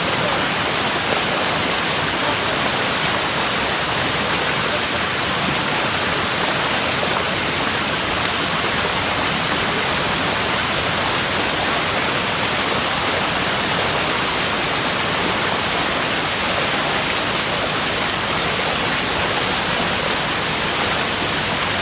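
Steady, even rushing of water, one unbroken wash of noise with no distinct splashes or other events.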